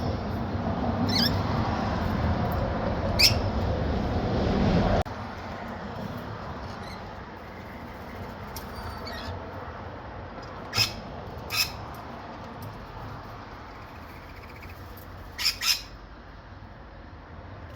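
Wild birds giving short, sharp squawks: single calls in the first few seconds, two about a second apart in the middle, and a quick pair near the end. Underneath is a steady background rumble that cuts off abruptly about five seconds in.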